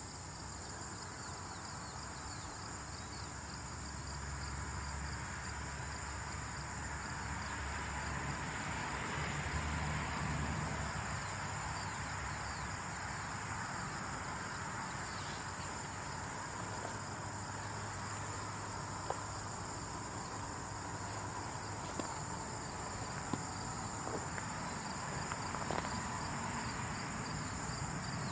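Steady high-pitched insect trilling, cricket-like, over a low rumble, with a few faint ticks in the second half.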